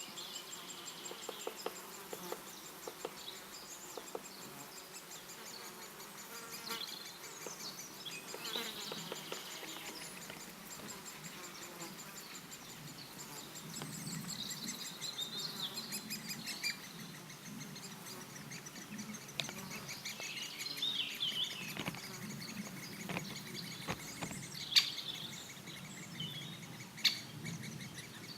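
Forest ambience: insects buzzing and small birds chirping, with a fast, even ticking high in pitch throughout. A few sharp single knocks stand out near the end.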